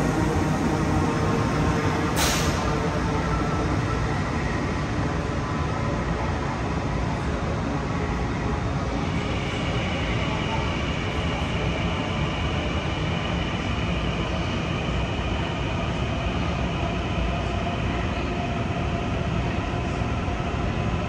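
Long Island Rail Road electric train running with a steady, loud rumble. There is a brief sharp burst of noise about two seconds in, and a steady high whine joins about nine seconds in and holds.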